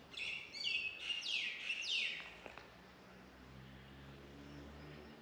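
A bird calling: a quick run of high chirps, each falling in pitch, over the first two seconds, followed by a faint low hum.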